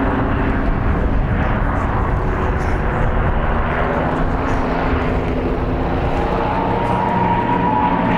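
Piston-engined propeller aircraft flying a display pass, its engine droning steadily, with a tone that glides in pitch near the end.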